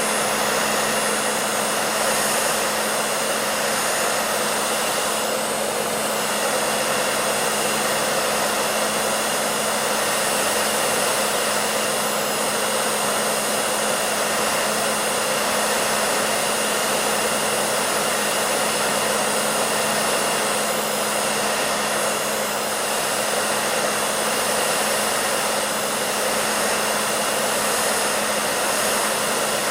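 Hair dryer running steadily: an even rushing of blown air over a low, constant motor hum, with no change in speed.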